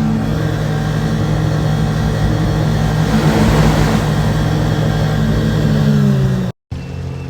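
Yamaha 115 V-MAX SHO four-stroke outboard running at high, steady revs under way, over a rush of wind and water. The pitch sags slightly about six seconds in, then the sound cuts out for an instant and comes back quieter.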